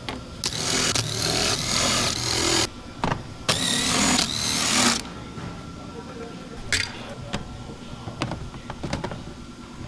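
A power tool running in two bursts, the first about two seconds long and the second about a second and a half, with a wavering whine. Light clicks and knocks of parts being handled follow.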